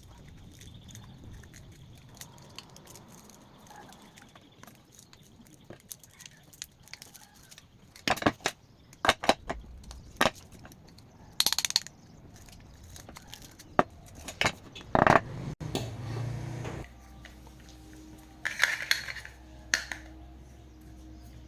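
Metal tools and grinder parts being handled on a workbench, an irregular run of sharp clicks, clinks and knocks. A steady low hum starts about three-quarters of the way through.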